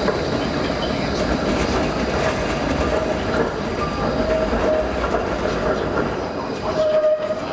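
Light-rail tram running along the track, with a steady rolling rumble and several brief wheel squeals.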